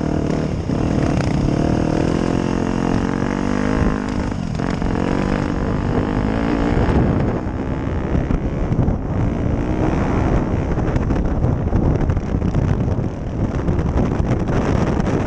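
Dirt bike engine running, its pitch rising and falling as the throttle is worked. In the second half, wind buffets the microphone.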